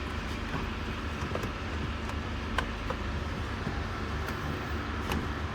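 A few light clicks and taps, as dashboard trim and screws are handled, over a steady low background rumble.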